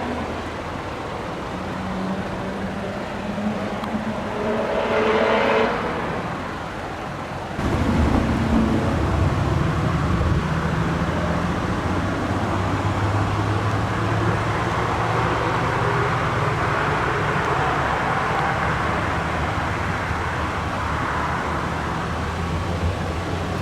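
Classic car engines running; one revs up briefly about five seconds in. After an abrupt change about seven and a half seconds in, a nearby engine idles with a steady, deep tone.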